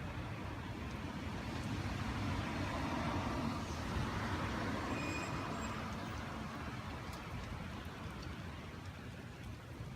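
Outdoor rushing noise of gusty wind mixed with road traffic, swelling about two to five seconds in and easing off toward the end.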